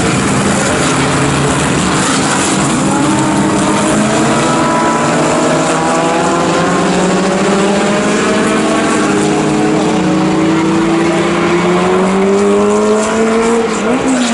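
Historic sports racing cars' engines running hard under power, with more than one engine note heard together. The main note climbs steadily through a long pull, then drops sharply near the end as the car shifts up a gear.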